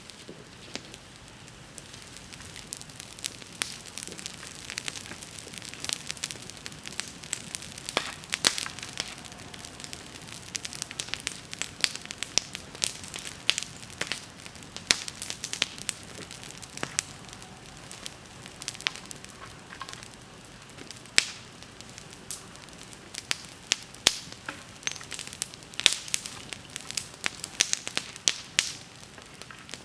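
Wood bonfire crackling, with irregular sharp pops and snaps over a soft hiss of burning.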